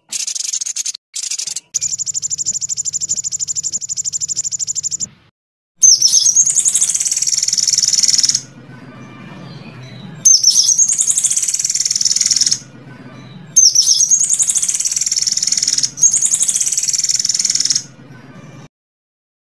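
Recorded songbird song of rapid high-pitched trills and rolls. A few short bursts open it, then comes a steady fast trill of about three seconds, then three longer phrases, each beginning with quick rising sweeps before running into a fast trill.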